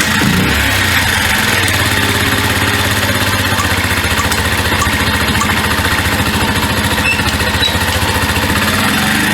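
Honda Little Cub's 49cc single-cylinder four-stroke engine running, settling about half a second in into a steady idle.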